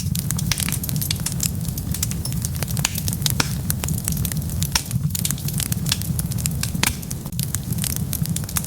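Wood fire burning, with many sharp crackles and pops over a steady low rumble of flames.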